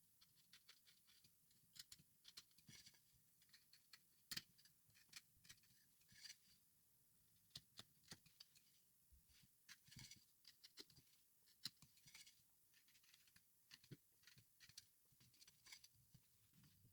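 Faint, short cutting and paring strokes of a hand carving blade on wood, coming irregularly, sometimes several a second.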